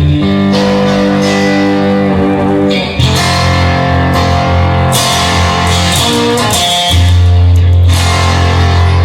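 Instrumental rock music: electric guitar and bass playing sustained chords, with drums.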